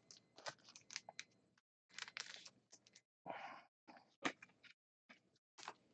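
Near silence broken by faint, scattered clicks and short rustles of trading cards and plastic being handled, with one slightly longer rustle about three and a half seconds in.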